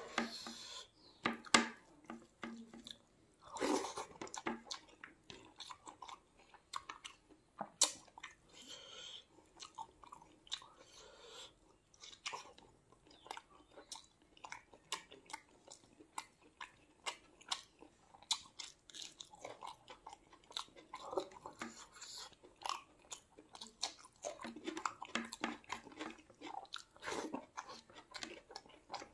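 Close-miked chewing and biting of a mouthful of rice with fried chicken liver and dal eaten by hand, with many short, irregular clicks and smacks.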